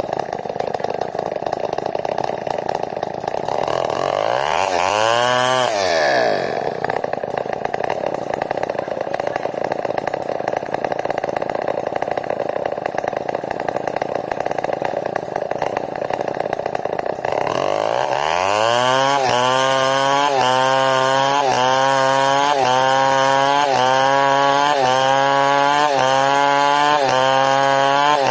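New West 070 chainsaw cutting through timber under load. About five seconds in the engine briefly revs up and falls back; from about 17 seconds it climbs to a higher pitch and runs with its note sagging and recovering about once a second.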